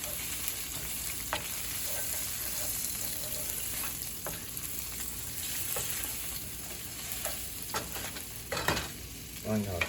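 Spinach sizzling in olive oil in a frying pan as it wilts, stirred, with a handful of sharp clicks and scrapes of the utensil against the pan.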